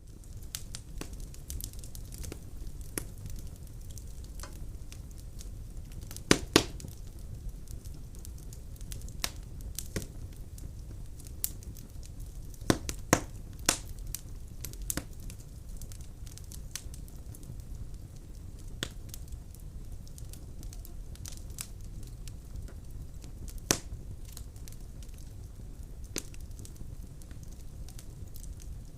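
Wood fire burning in a fireplace: logs crackling with irregular sharp pops, a few much louder snaps now and then, over a low steady rumble of the flames.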